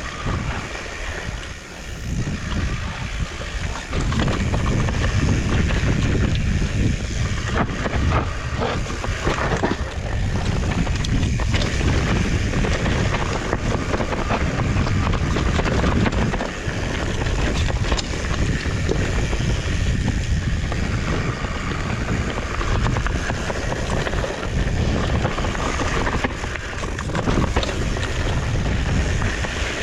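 Wind rushing over the microphone and the rumble of a Trek Farley 7 fat bike rolling along a trail, with frequent small knocks and rattles from the bike.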